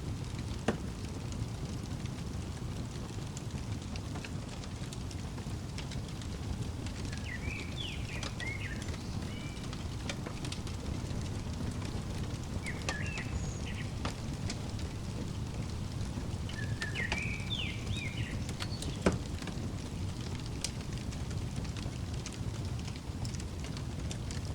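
Fireplace crackling over a steady low rumble, with scattered small crackles and two sharper pops, one about a second in and one about three-quarters of the way through. A songbird chirps in short phrases three times in the middle.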